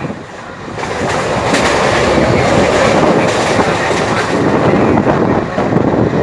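Train running on the track, with a steady rumble and repeated clicks of wheels over the rails.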